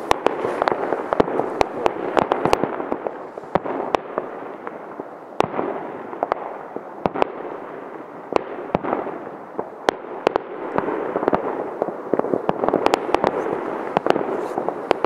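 Many fireworks going off at once all around: a steady wash of distant bangs with frequent sharp, closer bangs, several a second at times.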